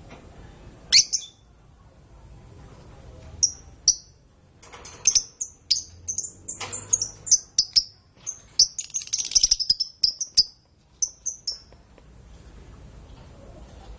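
Domestic canary singing: short high chirps and whistled notes that come thicker as it goes, with a fast trill about nine seconds in.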